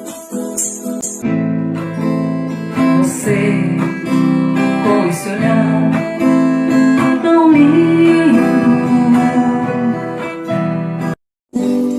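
Acoustic guitar strummed, with a voice singing over it. Strokes come sharply at first and settle into a fuller sound after about a second. The sound cuts out completely for a moment near the end.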